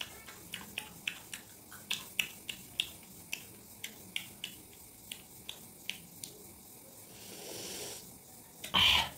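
Close-up mouth sounds of crisp raw green mango being chewed: a steady run of sharp crunching clicks, about three a second. Near the end comes a soft breathy sound, then one louder burst just before the end.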